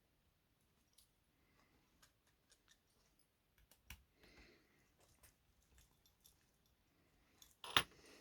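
Faint scattered clicks of small plastic and metal parts as a bogie is screwed back into a model locomotive's chassis with a small screwdriver. There is a sharper click about four seconds in and a louder knock near the end.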